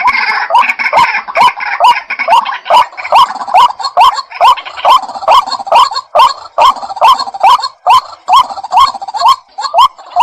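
White-breasted waterhen calling: a loud, unbroken series of short, upward-hooked notes repeated about two or three times a second.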